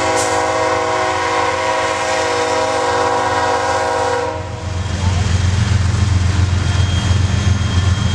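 Diesel locomotive's multi-chime air horn sounding a steady chord of several notes, held and then cutting off about four seconds in, followed by the low rumble of the train.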